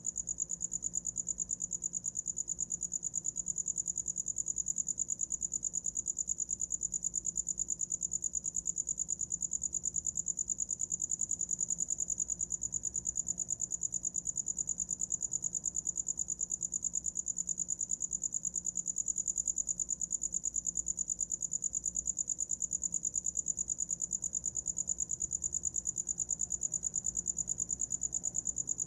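A cricket singing, a steady high-pitched trill of rapid, even pulses that never breaks.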